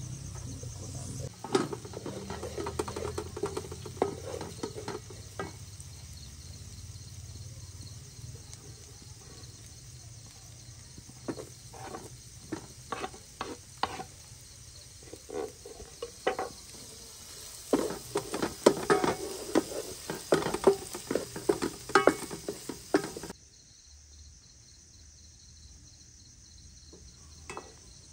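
Onions and chopped tomatoes sizzling as they fry in a pan, with a wooden spatula stirring and clacking against the pan and a wooden board, thickest in the second half. About 23 seconds in the sizzling cuts off, leaving crickets chirping.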